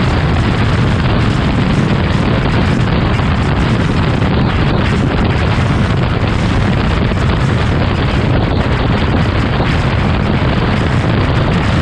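Heavy wind buffeting on a motorcycle-mounted camera microphone at riding speed. The Harley-Davidson Road Glide Special's V-twin engine runs underneath it.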